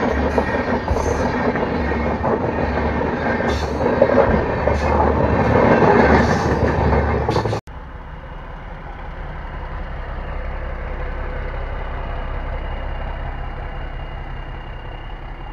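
A passenger train of Indian Railways LHB coaches passes close by: a loud, dense rumble that swells around four to six seconds in. It cuts off abruptly about seven and a half seconds in, giving way to the quieter, steady engine noise of a small self-propelled rail vehicle moving slowly along the track, with a faint steady high whine.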